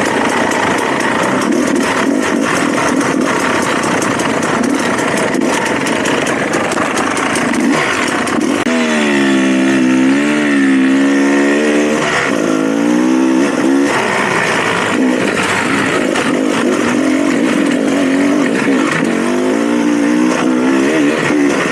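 Dirt bike engine running under way, its pitch rising and falling with the throttle, with a clear rise-and-fall of revs about nine to fourteen seconds in.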